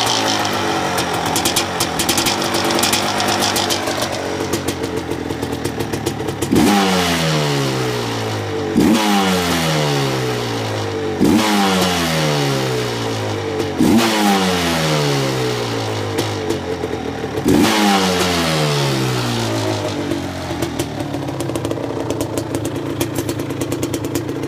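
A Suzuki quad's liquid-cooled two-stroke engine, warmed up, idling and then blipped five times. Each rev jumps quickly and falls back to idle over a second or two, before it settles to a steady idle.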